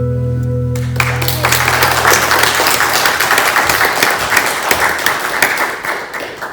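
The song's last chord rings out and fades, and about a second in the congregation breaks into steady applause.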